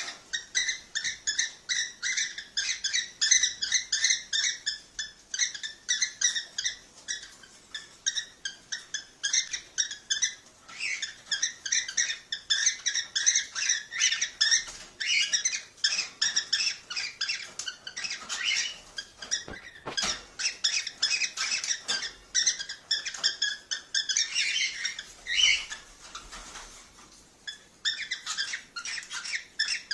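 Cockatiels chirping and chattering in a fast, continuous run of high, repeated calls, several a second, with a short pause near the end.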